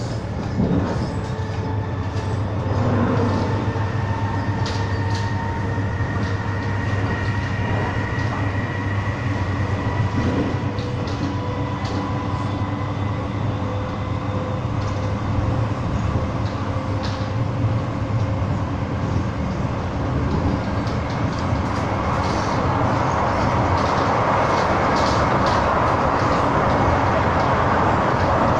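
Interior of an MTR Mid-Life Refurbished (Metro-Cammell) electric train pulling away and accelerating, its nose-suspended traction motors giving a low rumble with a whine of several tones slowly rising in pitch, and scattered clicks from the wheels. From about twenty seconds in, a rushing running noise grows louder as speed builds.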